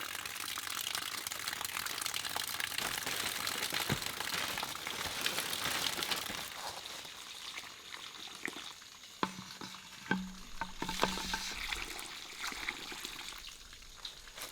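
Water running and splashing, fading out about halfway through, followed by a few light knocks and clicks.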